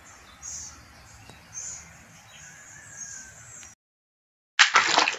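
Short high-pitched bird calls repeating about once a second over a faint hiss. They stop, and after a brief silence a loud rush of splashing water comes in near the end.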